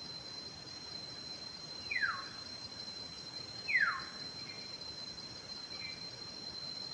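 A bird gives two clear whistles, each falling steeply in pitch, about two seconds apart, with a couple of faint short chirps after them. Under it runs a steady high-pitched insect drone.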